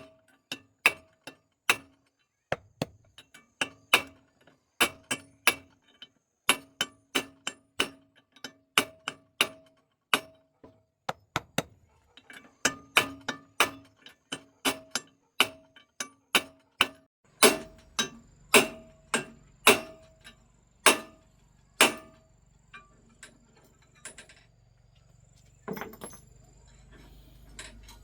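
Hammer blows on a metal machine part, about two a second, each ringing briefly at the same pitch. About two-thirds of the way through a low hum comes in, and the blows thin out to a few scattered knocks.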